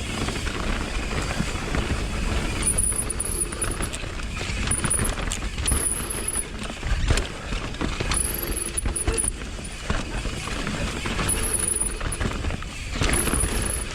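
Mountain bike descending a dirt trail: tyres rolling over dirt and roots, the chain and frame rattling with knocks over bumps, and wind on the microphone. Short high-pitched sounds come several times.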